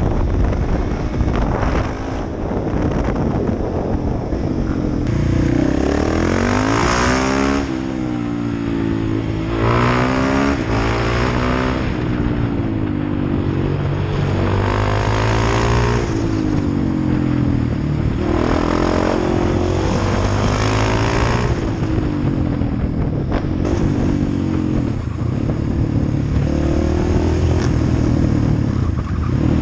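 KTM 690 SMC-R supermoto's single-cylinder engine heard from on board, rising and falling in pitch every few seconds as it accelerates out of corners and backs off into the next. Wind rushes over the microphone throughout.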